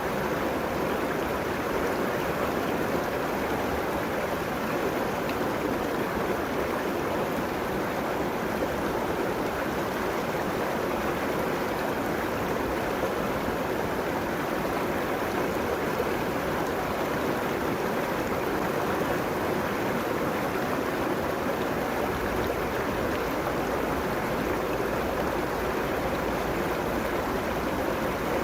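River water flowing and rushing steadily along its banks, an even, unbroken sound of running water.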